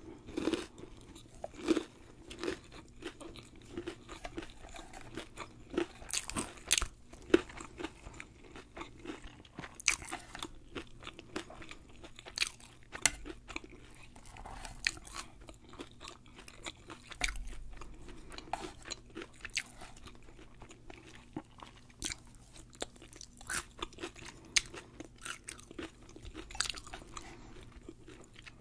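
Close-miked chewing of deep-fried sushi roll: irregular crisp crunches from the fried coating as she chews.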